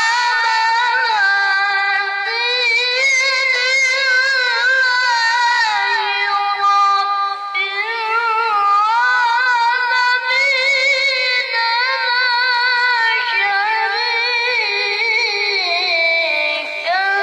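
A child qari reciting the Qur'an in melodic tilawah style: one high voice holding long, wavering, ornamented notes, with a couple of short breaks.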